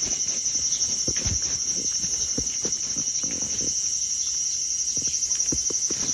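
A steady, high-pitched chorus of calling insects, with soft footsteps of a person out walking thudding underneath every half second or so.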